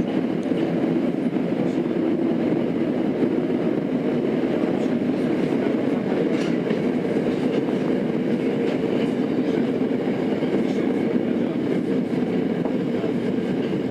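Tokyo Metro 02 series Marunouchi Line subway car (IGBT-inverter set) running steadily at speed, heard from inside the car: continuous wheel-and-rail running noise with a few faint clicks from the rails.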